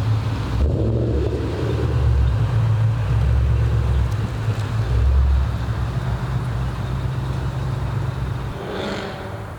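Car engine and exhaust rumbling deep and loud, easing a little toward the end. A short honk sounds about nine seconds in.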